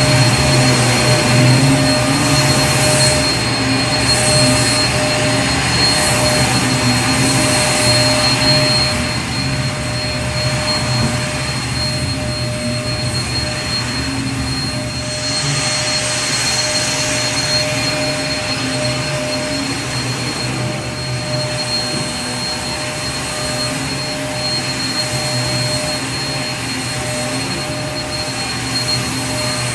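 Vacuum cleaner running continuously: a steady rush of air with a motor whine and a low hum, a little louder and more uneven in the first third, with a brief brighter swell of airflow about halfway through.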